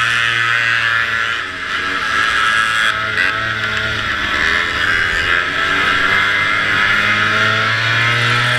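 Vintage racing snowmobile's two-stroke engine running hard at race speed, its revs wavering up and down, with a brief dip about a second and a half in. A steady rushing noise runs under it.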